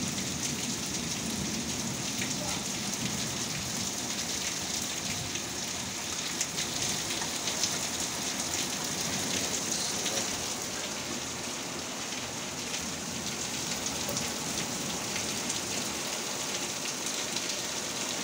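Heavy thunderstorm rain falling steadily on hard surfaces, with many sharp drop impacts close by.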